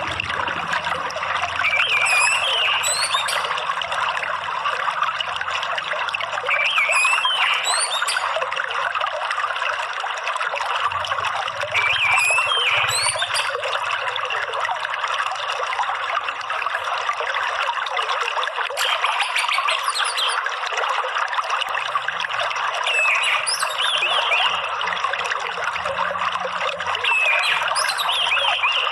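Steady trickling running water, with short phrases of orange-headed thrush song, high chirping notes, breaking in every few seconds.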